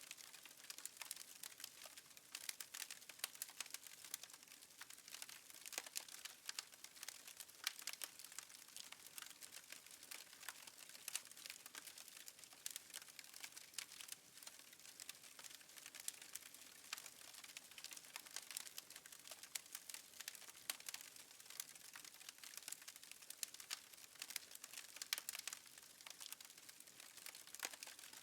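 Fireplace fire crackling faintly: a dense, irregular run of small sharp pops and snaps.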